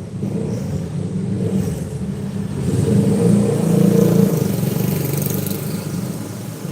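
A motor vehicle passing close by, its engine growing louder to a peak about four seconds in, then fading away.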